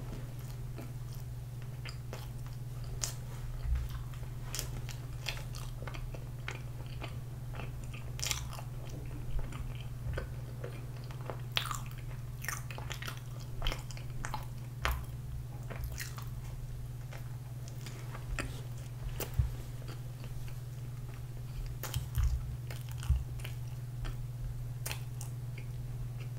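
A person biting and chewing soft pandoro bread close to the microphone: irregular wet mouth clicks and smacks over a steady low hum.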